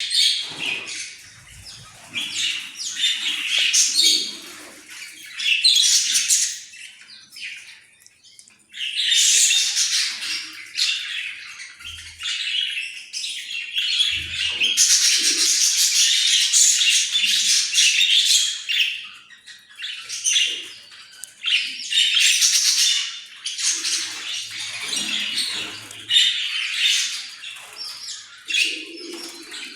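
Australian parrots chattering and squawking in high-pitched bouts of a few seconds, with short lulls between.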